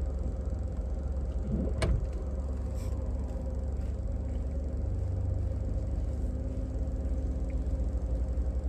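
Steady low rumble of a car, with a single sharp click about two seconds in.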